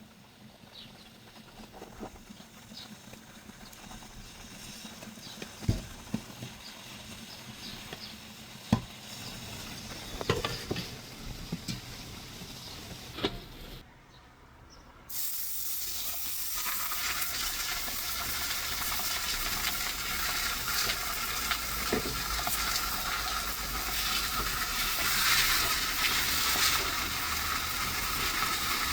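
A few scattered knocks from handling, then after an abrupt cut about halfway, a steady sizzling crackle of open-fire cooking that grows slightly louder.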